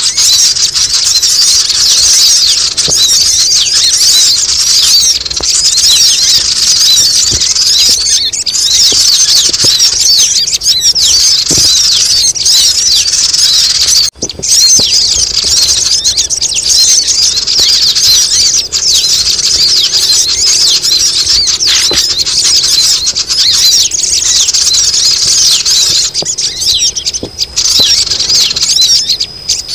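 Bird-lure recording of noisy sogon calls: a loud, unbroken chatter of many quick, high chirps overlapping one another, with a brief break about fourteen seconds in.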